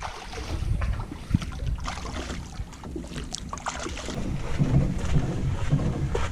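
Canoe under paddle, with water sounds from the strokes and a few short knocks, while wind buffets the microphone with a low rumble.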